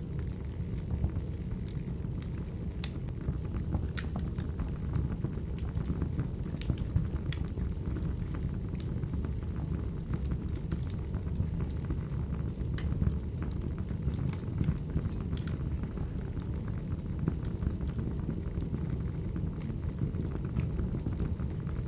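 Wood fire burning steadily, a low rumble of flames with scattered sharp pops and crackles from the burning logs.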